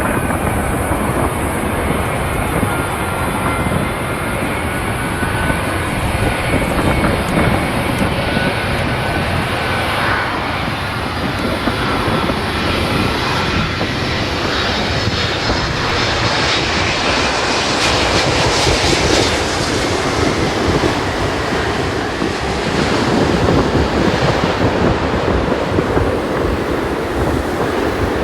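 Airliner engines heard close by, a loud steady rush with faint high whining tones that drift slowly in pitch.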